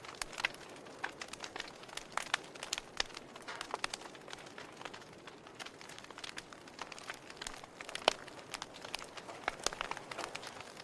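Wood fire burning in a fireplace, crackling with irregular sharp pops over a soft hiss; the loudest pop comes about eight seconds in.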